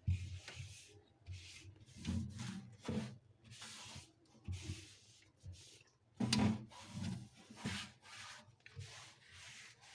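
Cloth wiping and rubbing over fridge surfaces in short, uneven strokes, soft.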